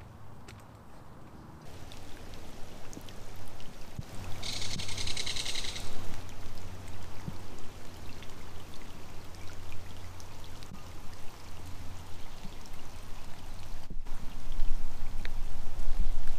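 Rain pattering on the surface of a creek, a steady hiss of drops that comes in after about two seconds. About four and a half seconds in, a belted kingfisher gives its dry rattling call for about a second and a half.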